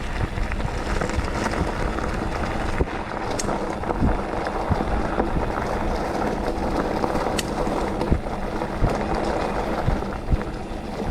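Mountain bike being ridden along a dirt trail: steady rumble of tyres and wind buffeting the microphone, with scattered sharp clicks and knocks from the bike over bumps.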